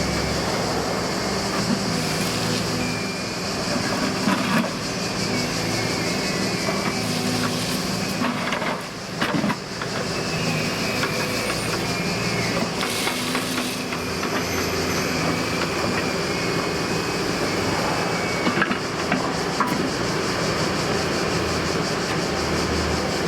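Heavy diesel engine running steadily, with a few short metallic knocks.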